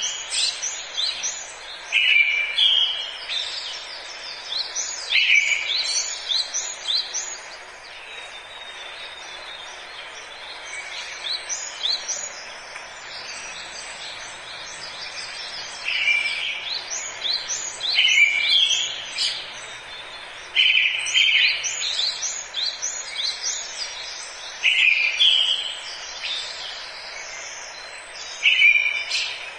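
Forest ambience of songbirds singing short, repeated phrases every two or three seconds over a steady background hiss, with a lull of several seconds around the middle.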